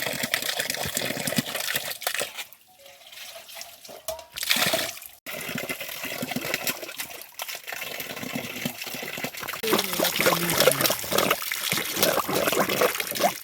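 Water running and splashing as a steady rush, dipping briefly about three seconds in.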